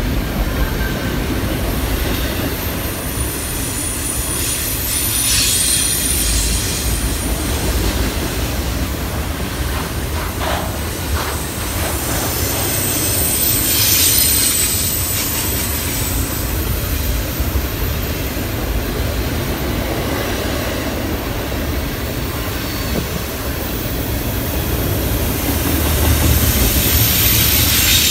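Double-stack intermodal container cars rolling past on a sharp curve: a steady rumble of steel wheels on the rail, with a high-pitched squeal from the wheels that swells and fades several times.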